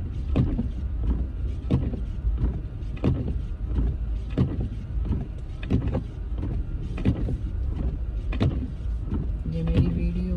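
Inside a moving car in a snowstorm: steady low engine and road rumble, with the windshield wipers knocking at the end of each sweep, a stronger knock about every 1.3 seconds.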